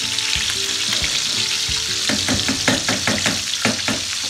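Chicken pieces frying in oil in a pan, a steady sizzle, being browned to golden brown. From about two seconds in, a quick run of clicks and scrapes as metal tongs turn the pieces against the pan.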